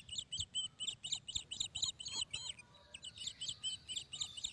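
A songbird singing a quick, high phrase of chirps and trills, given twice in the same form with a short pause between.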